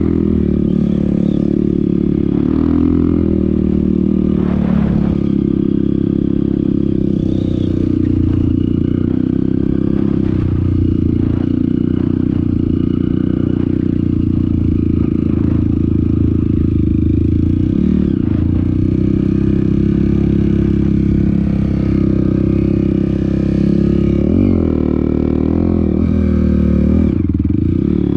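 Off-road vehicle engine running under way on a dirt trail, holding a steady pitch with a few brief rises and falls in revs, with clattering over rough ground.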